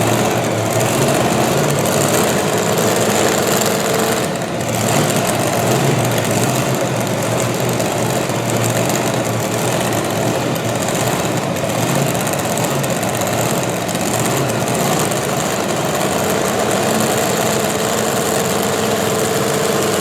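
Competition pulling tractor's engine running loud and steady, with a brief dip about four and a half seconds in.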